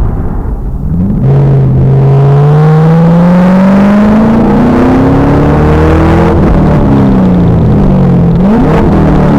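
Pontiac Trans Am Firehawk's LS1 V8 under hard throttle: it comes on sharply about a second in and climbs steadily in pitch under acceleration, then the revs fall away as the throttle is lifted, with a quick rise and fall in revs near the end. The recording is very loud and harsh.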